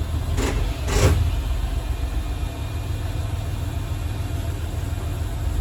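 Diesel railcar running along the line: a steady low rumble of engine and wheels on rail, with two sharp clacks about half a second apart near the start.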